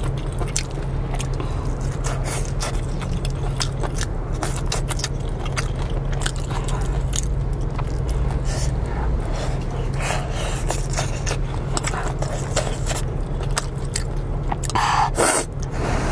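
Close-miked eating sounds: a person chewing and biting a mouthful of spicy noodles, with many small wet mouth clicks, over a steady low hum. A louder burst of noise comes about fifteen seconds in.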